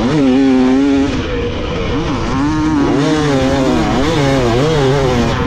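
Motocross dirt bike engine revving hard and backing off over and over as it rides the track, the pitch rising and falling every second or so. A second, lower-pitched bike engine runs alongside from about halfway.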